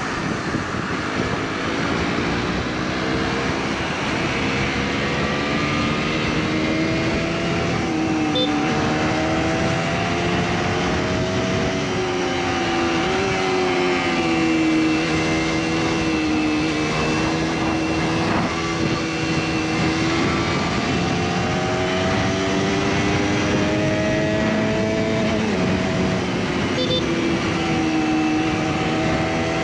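KTM RC 200's single-cylinder engine running steadily at road speed, its pitch drifting gently up and down, under a constant rush of wind noise.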